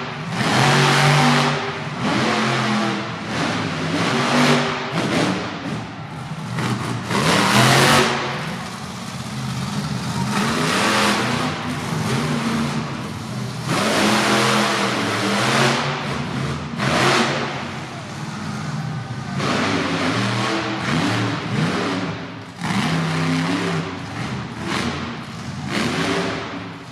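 Monster truck engine revving hard again and again, its pitch repeatedly climbing and dropping, with loud rushing surges at full throttle.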